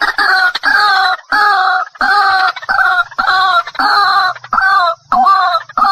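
White-breasted waterhen (ruak-ruak) calling: a loud series of harsh, honking notes repeated about twice a second, the bird's lure call.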